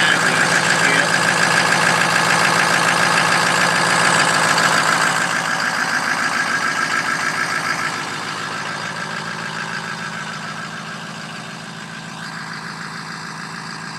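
Ford 6.0 Powerstroke V8 turbo-diesel idling on its stock exhaust, a steady diesel clatter. It is loudest for the first few seconds, then grows quieter from about eight seconds in.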